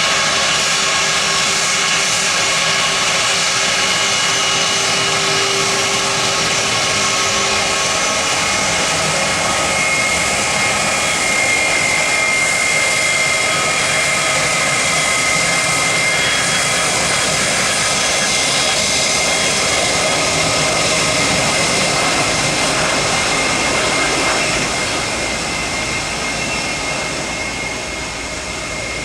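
Airliner's engines running loud and steady, with several high whining tones over a rushing noise; the sound eases off somewhat near the end.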